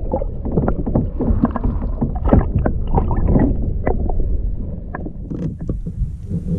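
Irregular knocks, bumps and water splashes against a plastic fishing kayak's hull as a small largemouth bass is handled and let back into the water.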